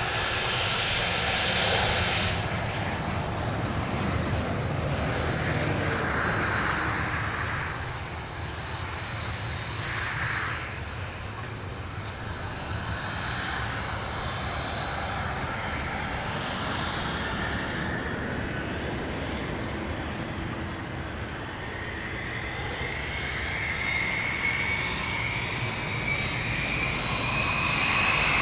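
Fixed-wing aircraft engines running with a steady rumble and a thin high whine. In the last few seconds a second whine climbs steadily in pitch as the engines spool up.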